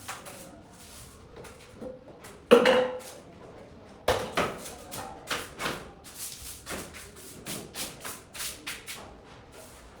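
A series of knocks and chopping strikes. A loud one about two and a half seconds in rings briefly, another comes at about four seconds, and then a run of lighter, quicker taps follows.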